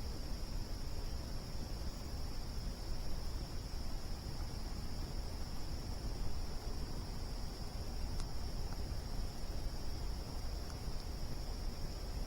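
A steady chorus of crickets, a continuous high trill, over a low rumble, with a single faint click about eight seconds in.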